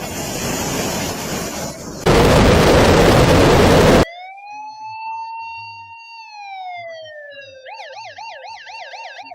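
A loud, even rushing noise, jumping louder about two seconds in, cuts off abruptly. An emergency vehicle siren follows: a wail that rises, holds, then falls, and near the end switches to a fast yelp of about four to five cycles a second.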